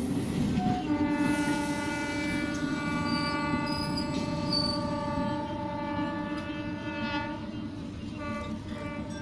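Indian suburban electric multiple unit (EMU) local train running past with a steady rumble of wheels on rails. A train horn sounds one long, steady blast from about a second in and fades out near the end.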